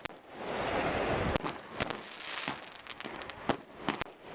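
Fireworks display: aerial shells bursting in quick succession, about ten sharp bangs and cracks over a continuous crackling hiss.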